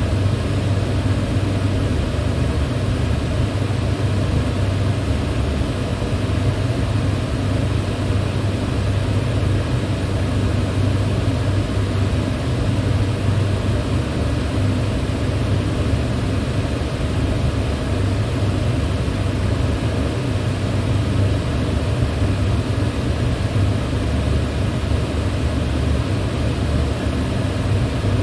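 Electric fan running steadily: a constant low hum under an even rush of moving air, with no change in speed.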